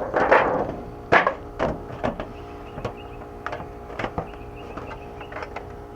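Knocks and scrapes from handling and fitting sheet metal onto a post: a few loud strokes in the first second and a half, then lighter scattered clicks, over a steady hum.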